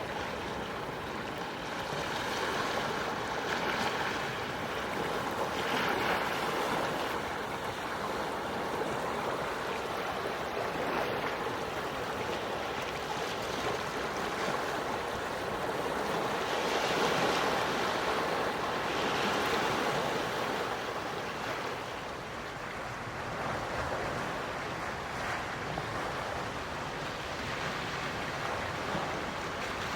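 Gentle sea waves washing in and out, a steady hiss of surf that swells and eases every few seconds.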